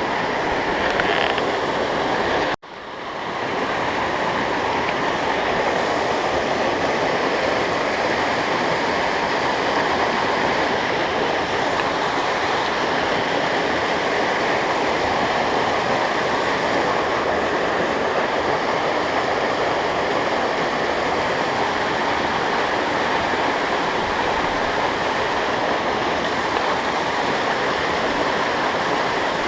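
Steady rush of a fast-flowing mountain stream and waterfall. It cuts out abruptly for a moment about two and a half seconds in, then comes back.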